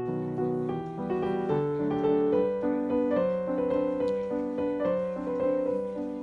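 Background piano music: a gentle, slow melody over soft chords.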